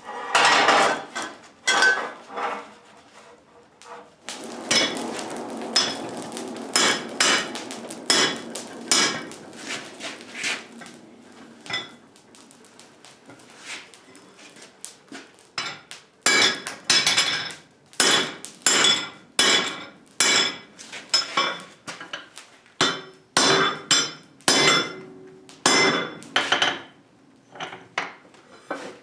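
Blacksmith's hammer striking hot 3/4-inch steel sucker rod on an anvil, each blow ringing briefly. A quick run of blows, a quieter lull of a few seconds in the middle, then steady strikes about one or two a second.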